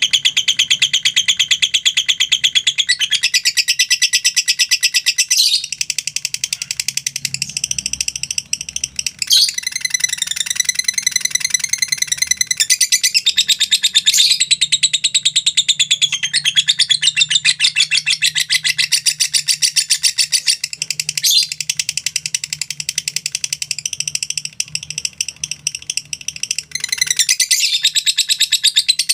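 Lovebird singing a long, unbroken ngekek: a very fast chattering trill of rapid repeated high notes that runs on without a pause, shifting in pitch and pattern every few seconds.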